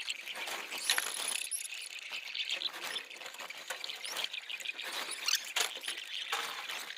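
Young pigeons being handled: continuous rustling, scratching and scuffling of feathers and feet, with a few short high squeaks.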